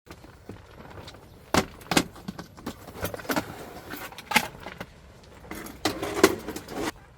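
Scattered clicks, clinks and knocks of gear being handled, some sharp and some dull, at irregular intervals over a quiet outdoor background.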